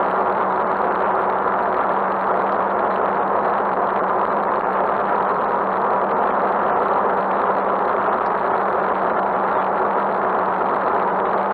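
Motorcycle engine running steadily, heard from a handlebar-mounted camera, with a steady low hum and an even rushing noise over it.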